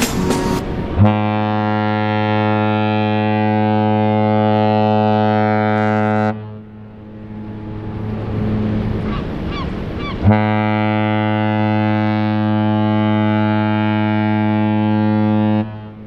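Mein Schiff 7 cruise ship's horn sounding two long, deep blasts of about five seconds each, with a gap of about four seconds between them, as a departure farewell signal.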